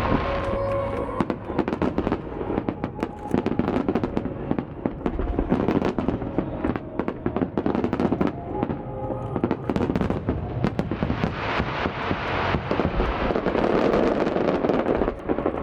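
Fireworks shells bursting and crackling in rapid succession, a dense barrage that grows heavier over the last few seconds, with music playing alongside.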